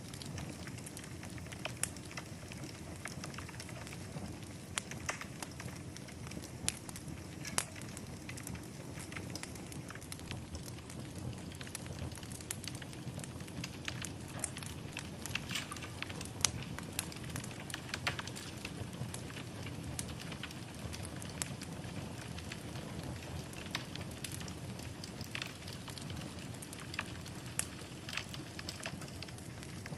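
Wood fire burning in a fireplace: a steady low hiss with frequent irregular crackles and sharp pops.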